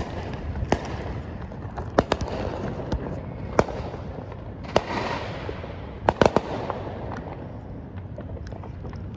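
Many fireworks going off at a distance: a steady rumble with scattered sharp bangs and cracks, a cluster of them about six seconds in, and a brief hissing swell near the middle.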